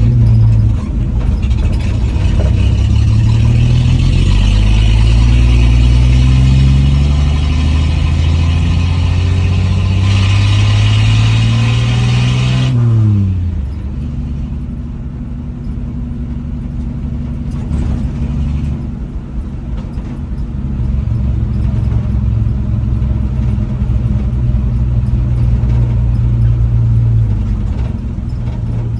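1967 Dodge D100's 225 slant-six engine pulling the truck along under throttle, its pitch climbing over the first dozen seconds. About 13 seconds in, the pitch drops sharply as the throttle closes, and the engine then runs steadily at a lower pitch.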